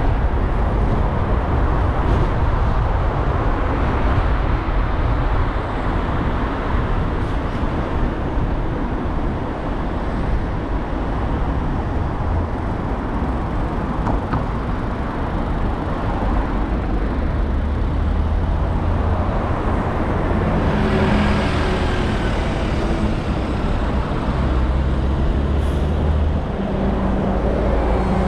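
A car driving in city traffic: steady road and tyre noise over a low engine rumble, with other vehicles passing. About two-thirds of the way through, a louder, brighter swell of traffic noise comes and goes.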